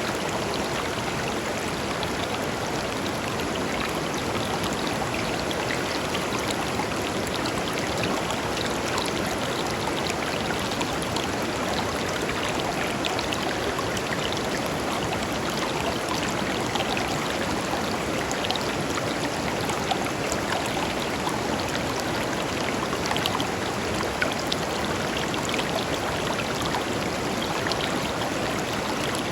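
A shallow river flowing steadily over stones, a continuous rush of water with small splashes and gurgles flickering through it.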